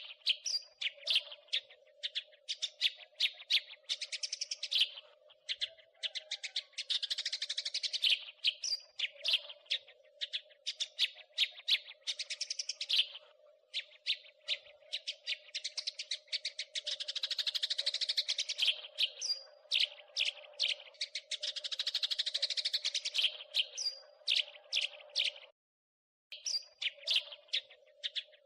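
House sparrow chattering: long, rapid runs of sharp chirps, broken by short pauses, over a steady low hum. The sound cuts out completely for about half a second near the end.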